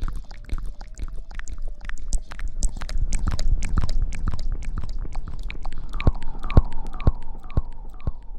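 Close-miked ASMR rustling: dense crackling and crinkling. From about six seconds in it gives way to a run of sharp taps, about two a second, each with a short falling ring.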